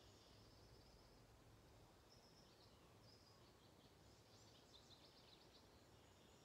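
Near silence with faint birds chirping: a few short chirps about two to three seconds in, then a quick run of chirps around four to five seconds in.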